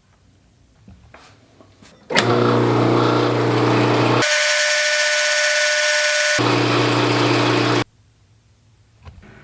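Electric power tool running loudly, starting suddenly about two seconds in and cutting off near the end. Partway through, its sound switches sharply to a higher, hissier tone for a couple of seconds before switching back.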